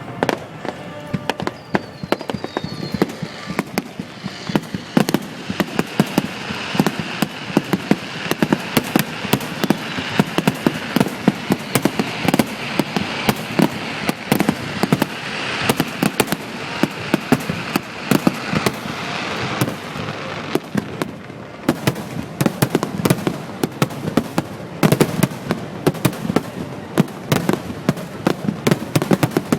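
Fireworks display in full barrage: rapid, overlapping bangs several a second over a steady hiss. The hiss eases about twenty seconds in, leaving more separate bangs.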